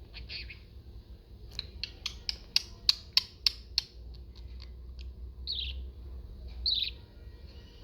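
Pet budgie giving short, high squawky chirps that fall in pitch, one near the start and two in the second half. Between them comes a quick run of about ten sharp clicks or taps, roughly three a second.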